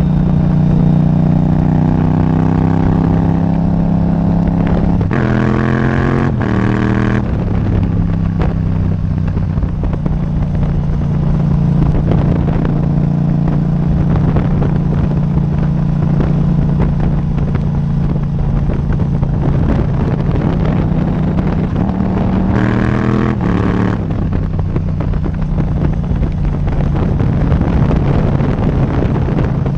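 Yamaha MT-07's parallel-twin engine running through an Akrapovič titanium exhaust under way, holding a fairly steady note. It revs up sharply through the gears twice, about five seconds in and again about two-thirds of the way through.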